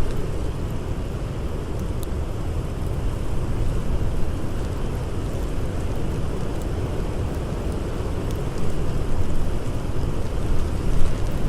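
Blizzard wind blowing hard, a low rushing noise that gusts louder over the last few seconds, with a few faint crackles of a campfire.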